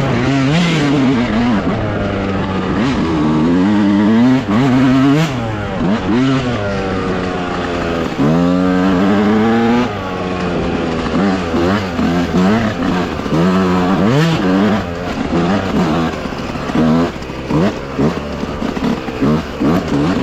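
Dirt bike engine revving up and down over and over as the rider works the throttle and shifts gears on a trail. In the last few seconds the throttle goes on and off in quick short blips.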